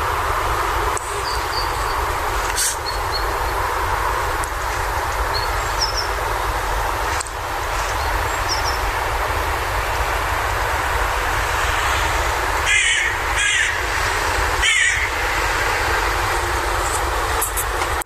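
Steady outdoor background rumble and hiss, with a few short faint bird chirps, then three loud bird calls close together about thirteen to fifteen seconds in.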